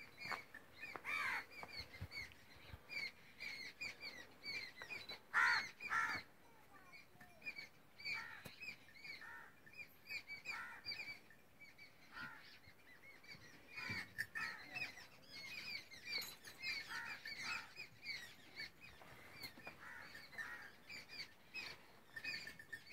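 Birds chirping rapidly and without pause, with a few louder, harsher calls about a second in and again around five to six seconds in.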